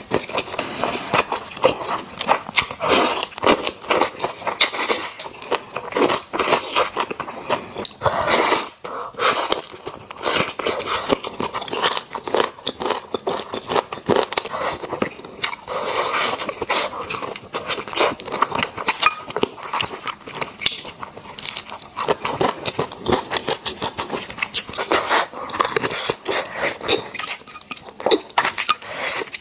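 Close-miked chewing and biting of braised pork belly and rice: a dense run of irregular mouth clicks and small crackles.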